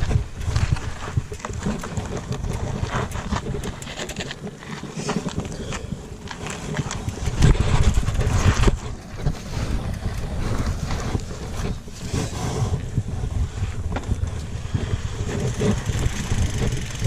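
Mountain bike going downhill on a rough dirt trail: wind buffeting the microphone, a low rumble from the tyres, and frequent clicks and knocks as the bike rattles over the ground.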